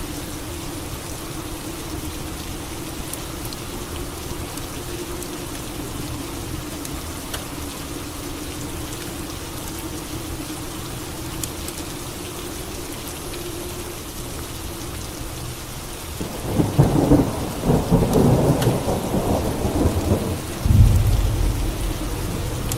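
Steady rain falling, broken about sixteen seconds in by a loud crackling thunderclap that settles into a deep, low rumble of thunder.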